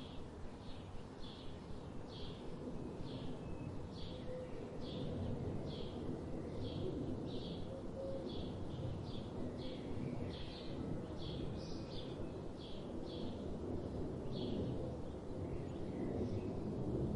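A bird chirping repeatedly, about two short high chirps a second, over a steady low rumble.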